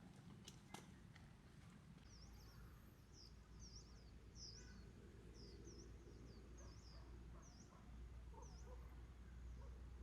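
Faint bird chirping: a long run of short, high chirps, about two a second, starting about two seconds in. Two light clicks come near the start, over a low rumble.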